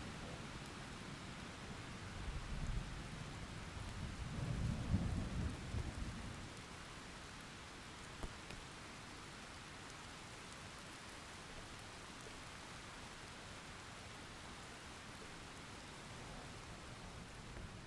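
Steady rainfall with rolling thunder: a low rumble swells over the first few seconds, peaks about five seconds in and dies away by about six seconds, leaving the even hiss of rain.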